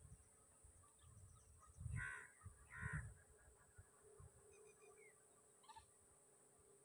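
A bird calls twice, loudly, about a second apart, then gives a few faint short chirps. A faint steady high hiss sits underneath.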